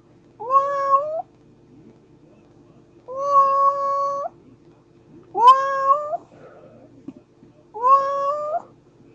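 A domestic cat meowing four times, each meow about a second long, rising in pitch and then holding steady.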